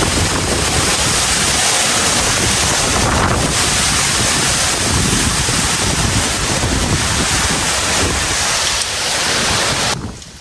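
Heavy rain and strong wind, with gusts buffeting the microphone in a loud, steady rush of noise. Near the end it drops suddenly to quieter rainfall.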